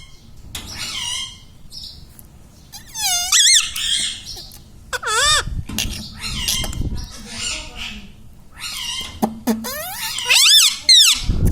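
Indian ringneck parrot giving a series of high, wavering squawks and whistles with short gaps between them, loudest near the end.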